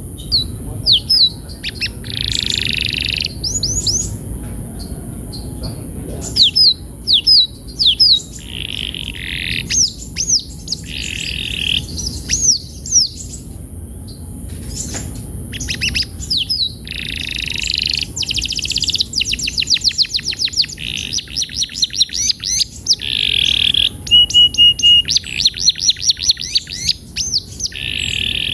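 Domestic canary singing a long, varied song of whistled notes, quick chirps and fast rolling trills, with the trills coming thicker and faster in the second half.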